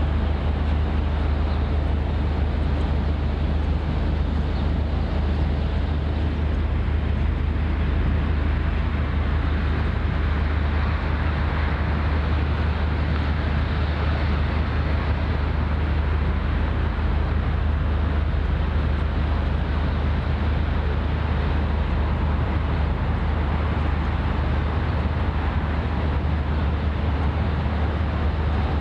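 A steady low rumble under an even wash of noise, unchanging throughout, with no distinct events.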